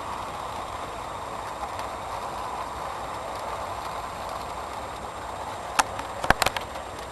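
Model trains running on the layout track, a steady whirring hum of motors and wheels, with a few sharp clicks near the end.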